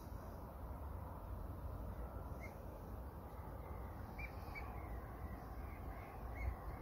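A bird calling in a run of short, high calls, once about two and a half seconds in and several more toward the end, over a steady low rumble.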